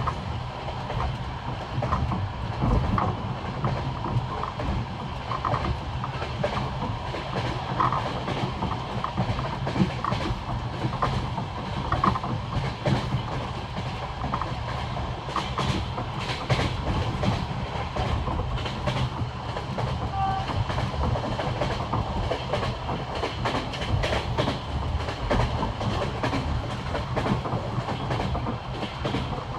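Passenger train wheels clattering over the rail joints of jointed track, a running clickety-clack of sharp knocks over a steady rumble of the moving carriages.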